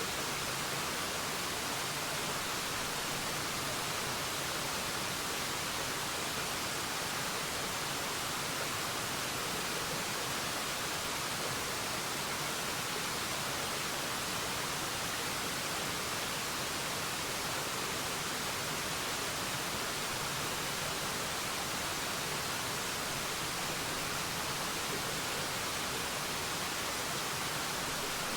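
Waterfall: a steady, unbroken rush of falling water, a hiss-like wash without distinct splashes.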